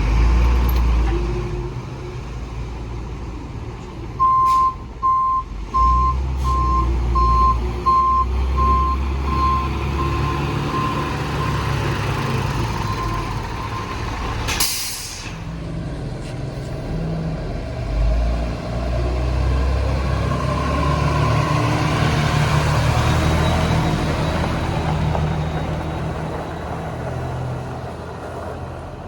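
Mini rear-loader garbage truck's diesel engine running, with its reversing alarm beeping about one and a half times a second for several seconds as it backs up. About halfway there is a short, sharp air-brake hiss, then the engine revs up as the truck moves off.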